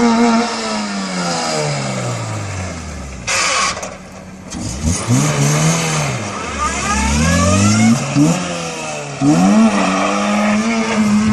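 Car engine revving: the revs fall away over the first four seconds, swing up and down a few times, then hold steady and high near the end. A short hiss comes about three seconds in.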